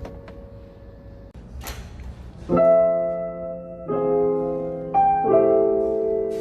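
Piano played in slow chords: after a short swish, a few chords are struck over a second apart, each left to ring.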